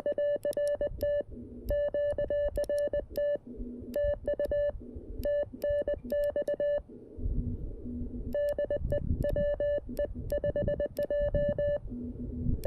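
Morse code sent by hand on a 3D-printed key through a CFT-1 CW transceiver: the radio's steady high sidetone beeps in quick dits and dahs, in several groups with short pauses between them, with a sharp click on each keyed element. A fainter, lower tone sounds briefly in some of the pauses over low band-noise hiss.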